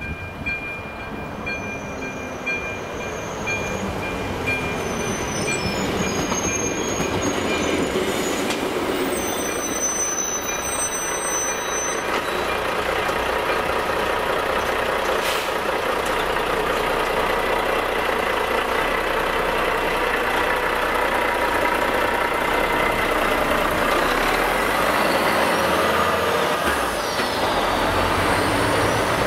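A train passing over a level crossing, its running noise building over the first few seconds and then holding steady, with the crossing's pulsing electronic warning tone during the first few seconds. Near the end a heavy dump truck drives past close by.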